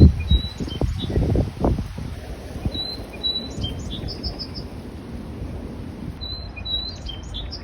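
A songbird singing the same short phrase three times, a few seconds apart: two or three clear high whistled notes, then a quick run of higher notes. A low rumble in the first two seconds is the loudest sound.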